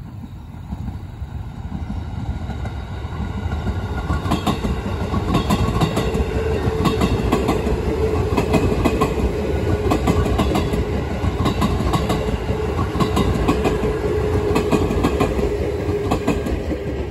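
JR 211 series electric train passing, its wheels clacking rhythmically over the rail joints above a low rumble and a steady hum. It grows louder as the train approaches, is at its loudest from about four seconds in while the cars go by, and fades near the end.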